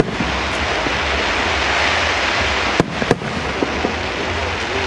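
Fireworks display: a continuous dense crackling hiss from the fireworks, with sharp bangs of bursting shells at the start and twice in quick succession about three seconds in.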